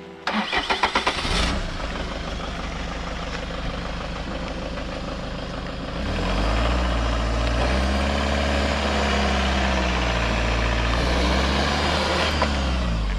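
A camper van's engine is cranked and catches within the first second and a half, then runs steadily. About six seconds in it is revved twice, rising and falling in pitch, as the van tries to pull out of soft sand.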